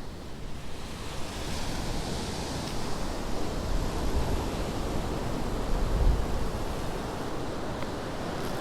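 Ocean surf washing in steadily, swelling a little louder about six seconds in.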